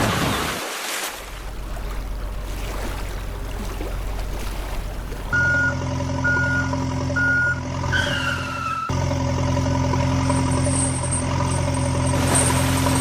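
Heavy truck engine sound effects: a low rumble, then a steady idling hum. Three evenly spaced reversing beeps sound over the hum about five seconds in, followed by a short falling whistle.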